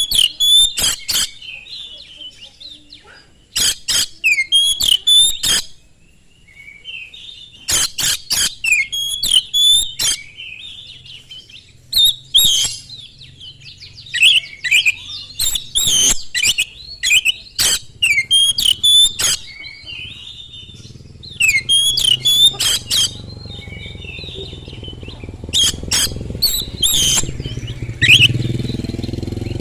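Oriental magpie-robin (kacer) singing loudly in rapid bursts of sharp whistles and clicking notes, with short pauses between the bursts. A low rumble rises underneath about two-thirds of the way through.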